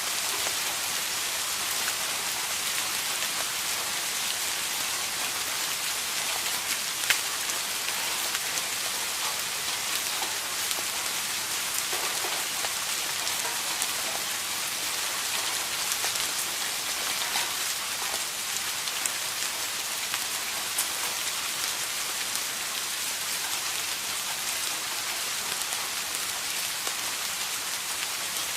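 Steady rain falling, an even hiss with scattered individual drops ticking on a surface, one a little louder about seven seconds in.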